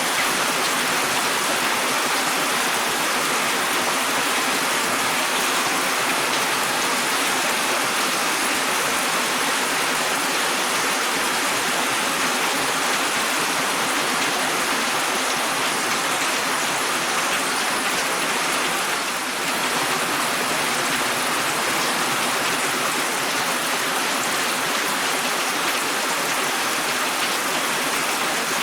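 Steady rain falling, a constant even hiss without single drops standing out; it softens slightly for a moment about two-thirds of the way through.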